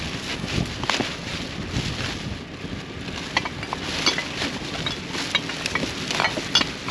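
Rummaging through a pile of discarded household items: irregular clicks, knocks and rustling as containers and bottles are handled, over steady wind noise on the microphone.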